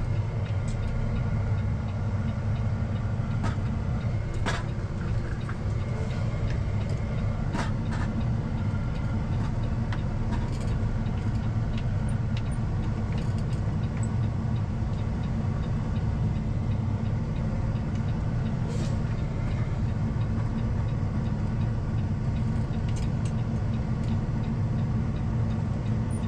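The Cummins ISX diesel of a 2007 Peterbilt 379 running steadily at low speed, a constant low drone, with a few faint clicks scattered through it.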